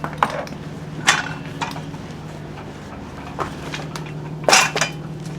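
Scattered knocks and clatters of hard objects being moved about while searching for a misplaced part, loudest about a second before the end, over a steady low hum.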